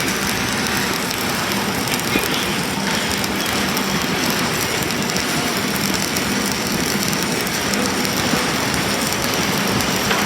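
Self-shielded flux-cored arc welding with Lincoln Innershield NR305 wire: a steady, dense arc crackle.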